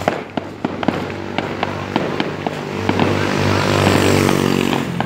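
Fireworks popping and crackling in quick, irregular sharp bangs. A low droning tone joins about halfway through and fades near the end.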